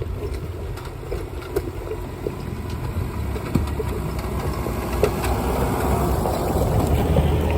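Off-road 4x4's engine running at low speed, with scattered short knocks and clicks over a steady low rumble; the engine grows louder in the last couple of seconds.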